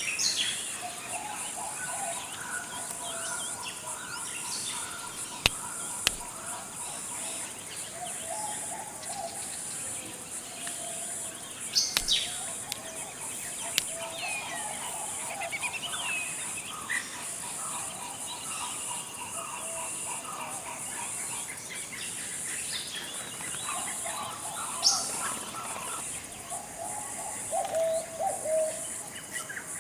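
Forest ambience: a steady high-pitched insect drone with several birds calling over it, mostly low warbling phrases and a few sharp high chirps. A couple of sharp clicks come about five seconds in and again near twelve seconds.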